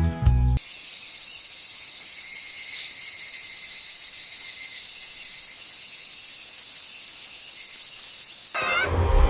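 Jingly music cuts off about half a second in. A steady, high-pitched insect chorus of the cricket kind follows, used as an ambience effect. It stops abruptly shortly before the end.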